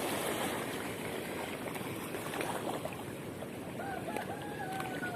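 Steady wash of water and wind with no clear events, and a faint wavering high tone near the end.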